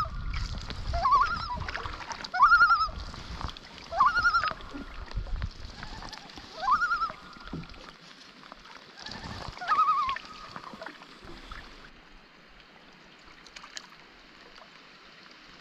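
Common loon giving short, rising, wavering calls, about one every second and a half, stopping about ten seconds in. It is calling at a canoe drifting close. Low thumps sound under the first few calls.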